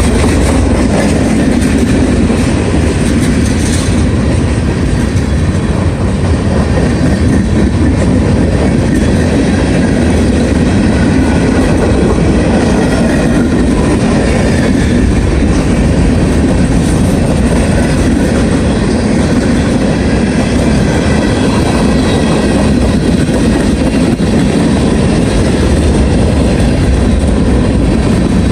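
Freight cars of a CSX mixed manifest train rolling past steadily, wheels clacking over the rail joints, with faint high wheel squeal now and then.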